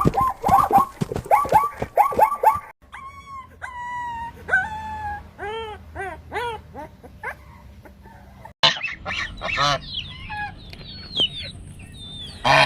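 Animal calls in three clips cut together. First comes a quick run of short, repeated honking calls. A few seconds in it cuts to spaced, arching whistled calls that drift lower. About two-thirds of the way through it cuts again to busier chattering and squawking bird calls.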